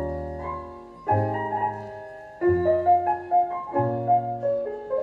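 Background music: a piano playing slow sustained chords, a new chord about every second and a bit.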